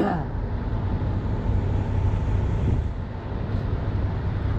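Steady low rumble of an idling heavy-truck diesel engine.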